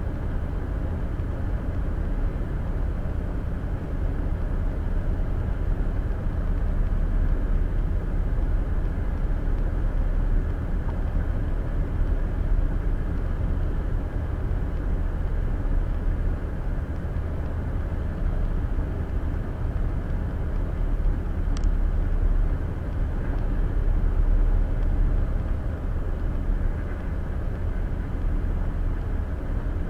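Steady road and engine noise of a car cruising on the interstate, heard from inside the cabin through a dash cam's built-in microphone. A single brief click comes about two-thirds of the way through.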